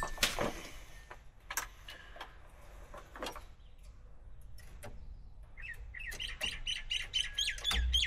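Scattered light clicks and taps from test-meter leads being handled, then from about five and a half seconds in a bird calling in rapid, repeated short chirps, about four a second.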